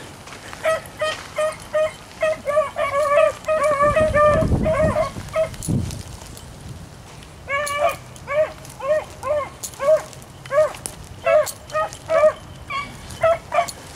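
Pack of beagles giving tongue on a rabbit's trail: quick, repeated barks, about two or three a second, falling silent briefly about halfway through before picking up again. A short low rumble comes midway.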